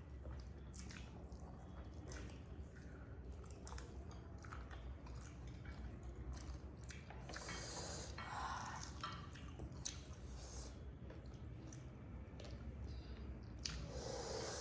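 A person chewing food close to the microphone, with many short, wet mouth clicks and smacks over a steady low hum.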